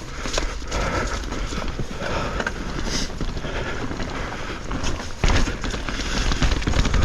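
Mountain bike running over a rough, wet trail: the bike rattles with a dense stream of small knocks and tyre noise. Wind buffets the action-camera microphone, heaviest from about five seconds in.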